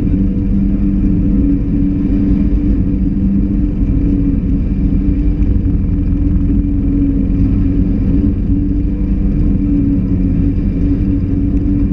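Suzuki Grand Vitara's engine idling steadily, a constant low hum with no revving.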